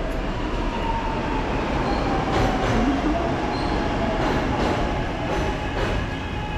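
Subway train running through an underground station: a steady rumble with long, slowly falling metallic whines from the wheels and a few sharp clicks along the way.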